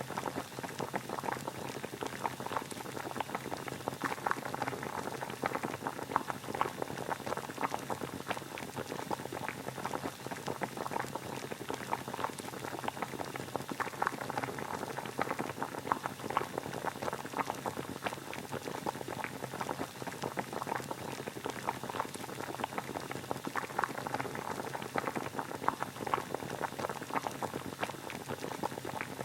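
Water boiling steadily, a continuous dense bubbling and popping of many small bubbles.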